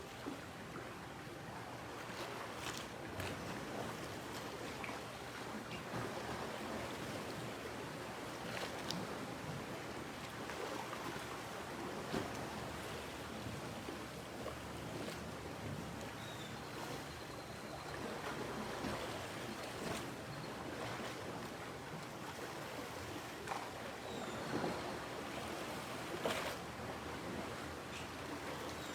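Steady wash of sea surf, with a few scattered light knocks and ticks.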